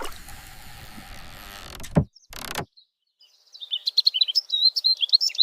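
Small birds chirping rapidly in quick high notes, starting about halfway in. Before that, a noisy rush ends in a sharp knock at about two seconds, followed by a short burst of noise.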